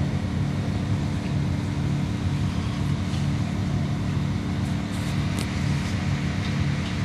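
Regional passenger train rolling slowly, heard from inside the carriage: a steady hum from the train's drive with a low pulsing tone, and a few faint clicks about five seconds in.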